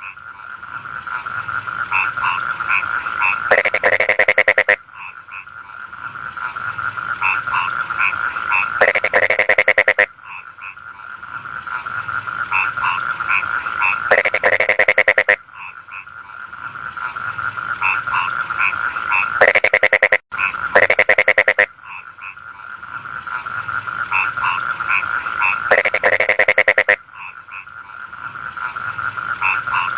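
Rice-field frogs calling in chorus: a steady trilling chorus with loud runs of rapid croaks, each about a second long, that come back about every five seconds.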